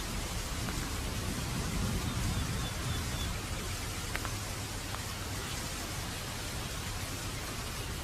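Heavy rain falling steadily, an even hiss of many drops, with a slight low swell about two seconds in.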